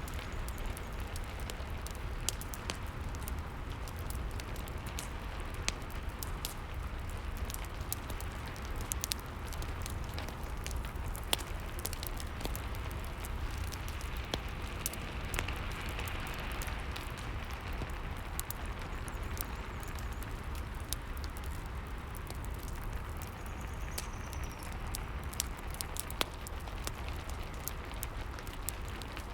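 Rain and fireplace ambience: a steady hiss of rain with a low rumble, over which a wood fire crackles with frequent sharp snaps.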